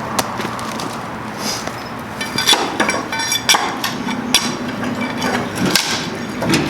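Hand tools knocking and clinking: a run of sharp hammer-like blows, some with a short metallic ring, starting about two seconds in over a steady low hum.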